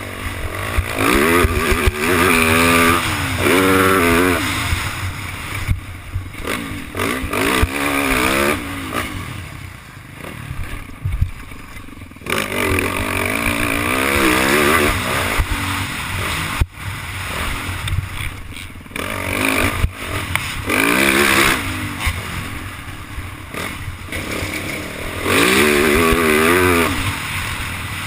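Yamaha YZ450F four-stroke single-cylinder dirt-bike engine, ridden on a motocross track, revving up and falling off again in about five bursts of throttle with quieter rolls between. Heard close up from an onboard camera, with chassis clatter.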